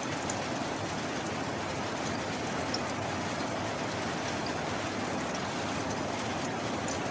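Steady heavy rain: an even hiss with a few scattered sharp drop ticks.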